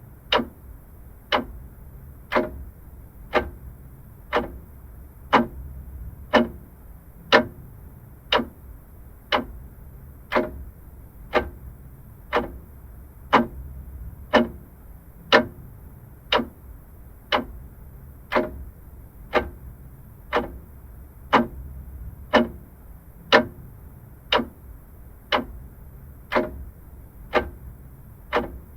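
Vintage clock ticking steadily, about one sharp tick a second.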